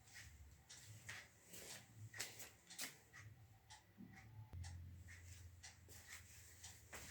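Near silence: faint room tone with scattered soft ticks and scratches, and a low hum that gets stronger about halfway through.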